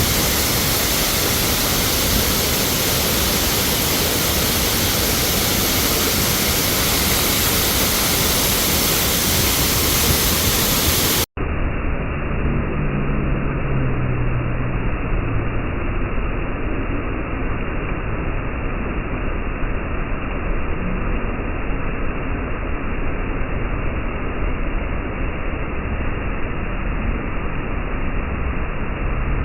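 Waterfall: a loud, steady rush of falling water. About eleven seconds in, an abrupt cut switches to a duller, more muffled rush.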